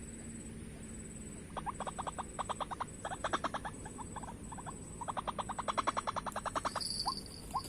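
White-breasted waterhen (ruak-ruak) calling: two runs of rapid, evenly repeated call notes, about seven a second, then a few single rising notes near the end.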